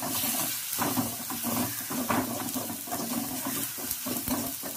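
Chopped onion and tomato sizzling as they sauté in oil in a kadai, with a metal spatula scraping and stirring them against the pan several times.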